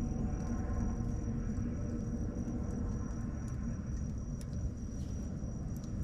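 Wood bonfire burning with scattered sharp crackles and pops over a steady low rumble.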